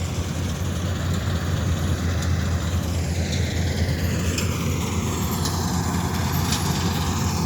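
Combine harvester's diesel engine and threshing machinery running steadily while harvesting paddy, a constant low hum under a haze of mechanical noise.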